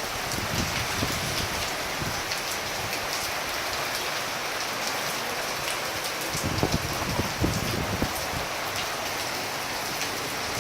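Heavy tropical downpour: a steady rush of rain with fine drop ticks, and a few louder dull thuds of drops a little past the middle.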